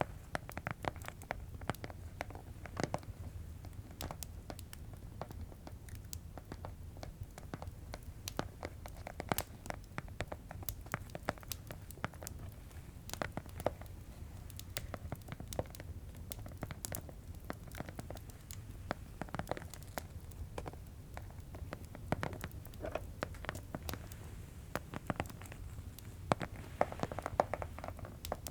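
ASMR tapping: irregular quick taps and clicks on objects, some in fast runs, others spaced out, over a low steady background of crackling fireplace ambience.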